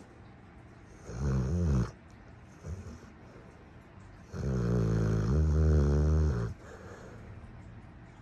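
Cane Corso puppy snoring: a short low snore about a second in, a faint one near three seconds, then a long, louder snore of about two seconds in the middle.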